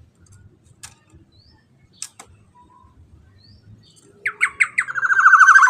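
Kepodang (black-naped oriole) giving a loud, harsh call about four seconds in: a few short falling notes running straight into a fast, buzzy rattle. Before it there are only a few faint clicks and chirps.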